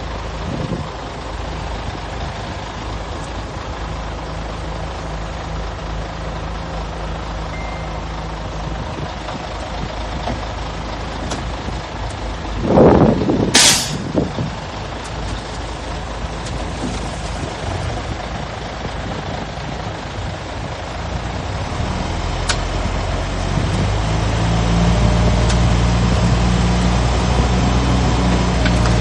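Heavy diesel engines of earthmoving machines running steadily. About halfway a short loud burst is followed by the sharp hiss of a truck's air brakes. In the last several seconds an engine grows louder and deeper.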